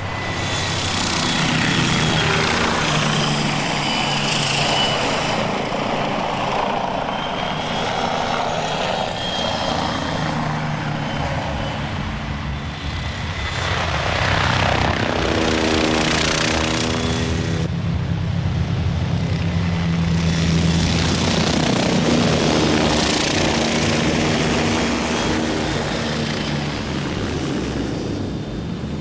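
Radio-controlled Eachine E200 scale Bo-105 helicopter flying: the motor and rotor hum steadily under a rushing noise, the pitch rising and falling as it manoeuvres.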